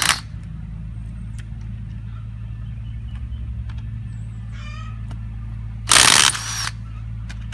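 An impact wrench hammering briefly, for under a second, about six seconds in, on a stuck wheel nut of a Farmall Cub tractor. A steady low hum runs under it.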